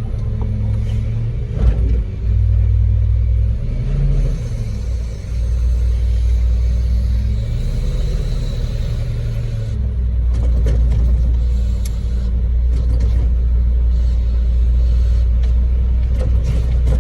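Concrete mixer truck's diesel engine running steadily with a low rumble, with a few short knocks and clicks from the work around it.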